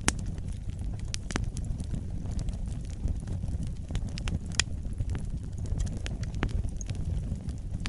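Wood fire burning in a fireplace: a low steady rumble with frequent sharp crackles and pops, one louder pop about four and a half seconds in.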